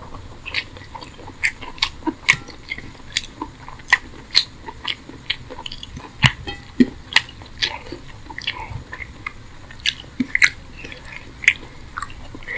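Close-miked chewing of rice and curry eaten by hand: wet mouth clicks and smacks at an uneven pace, a few each second.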